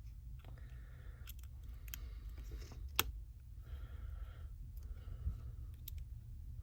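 Small hand tools clicking and scraping against a smartphone's internal parts during disassembly, a few sharp clicks between stretches of scratching, over a steady low hum.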